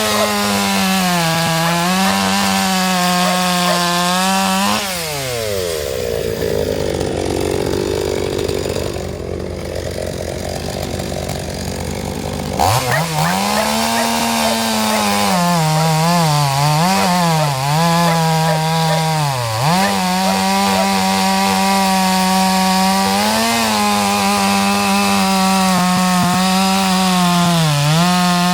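Two-stroke chainsaw running at high revs while cutting firewood, its pitch dipping and recovering as the chain bites into the wood. About five seconds in the engine note falls away to a low idle. It revs sharply back up about eight seconds later and carries on cutting, bogging down briefly several times.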